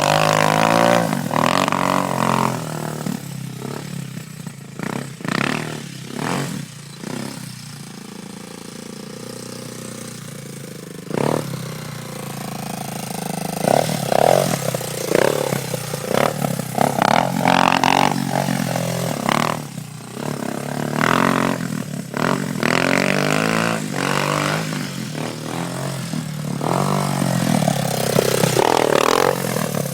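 Honda 250 cc enduro motorcycle engine revving up and falling back again and again as it is ridden, with a quieter, steadier stretch about a third of the way in. Several brief sharp clattering noises cut in.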